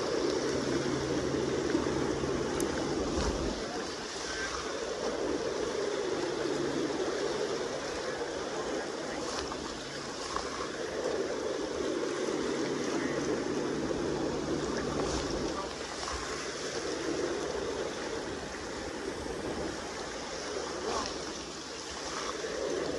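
Kenai River current rushing past the bank: a steady wash of water that swells and eases every few seconds.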